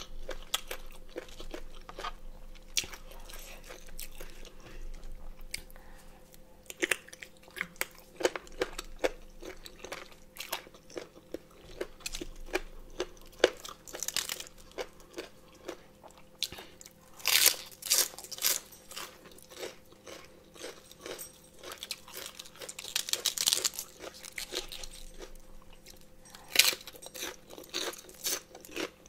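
Close-miked mouth sounds of chewing crunchy boiled pig ear cartilage and raw cabbage: a steady run of wet crunches and bites, with louder crunch flurries about two-thirds of the way in.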